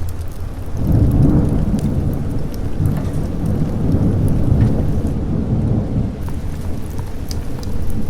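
Thunder rumbling over steady rain. The low rumble swells in about a second in and rolls on for several seconds before easing off.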